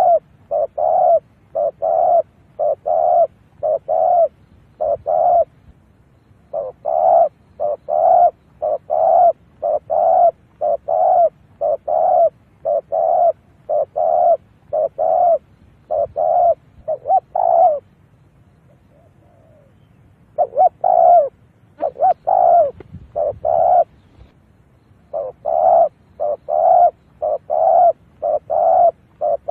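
Spotted dove cooing in a long run of short, quick coos, about two a second, breaking off a few times for a second or two. It is a decoy bird's call, used to draw wild spotted doves in to a trap.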